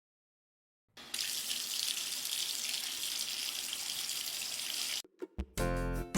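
Water running from a tap into a sink for about four seconds: it starts about a second in and cuts off suddenly. Cheerful children's music starts near the end.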